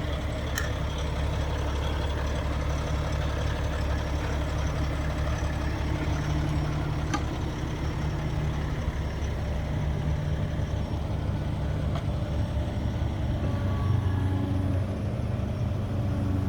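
Heavy diesel engines of an excavator and a stuck dump truck running steadily, a low drone, with a couple of faint clicks of working machinery.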